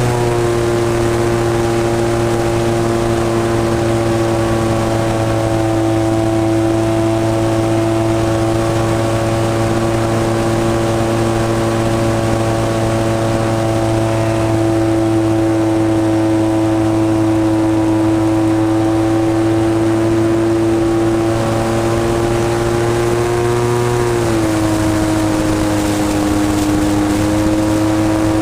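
SV Hobbies 26cc two-stroke gas engine of an RC airplane running steadily at cruise throttle, with its propeller; the pitch drops a step near the end as it is throttled back a little.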